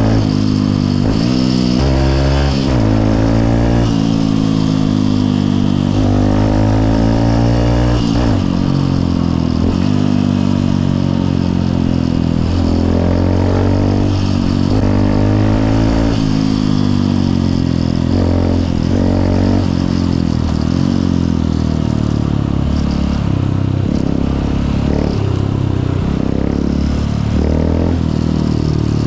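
Honda CRF150L's single-cylinder four-stroke engine running under way. Its pitch climbs and drops back at each gear change through the first several seconds, then rises and falls with the throttle.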